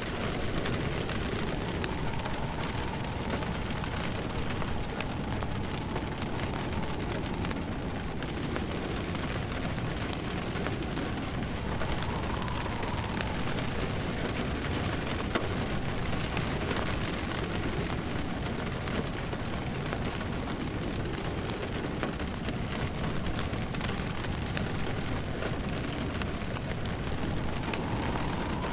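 Steady rain on a surface blended with a crackling wood fire, with a faint whistle of wind swelling now and then.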